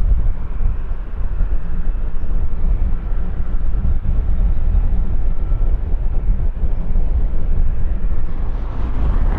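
Jet airliner engines rumbling low and steadily, with a faint thin whine in the middle and a brighter swell of engine noise near the end.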